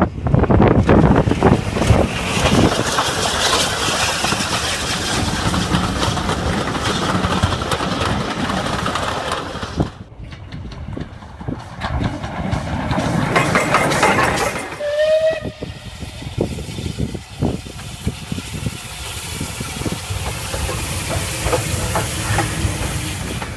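Steam locomotive hissing steam amid train noise, with a sudden drop about ten seconds in. A brief rising whistle sounds about fifteen seconds in, then a steady, lighter hiss.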